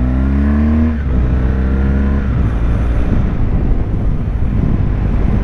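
BMW R1200GS flat-twin engine accelerating, its pitch rising, with a gear change about a second in and a second rise until about two seconds in. After that the engine note fades into steady wind and road noise.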